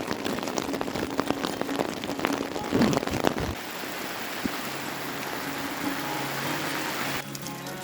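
Rain falling, with close drops tapping sharply on a surface for the first few seconds, then giving way to an even, steady hiss of rain. The sound changes abruptly near the end.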